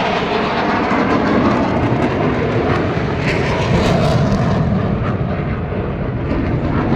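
Loud, steady jet engine noise from military jet aircraft, with some crackle in it.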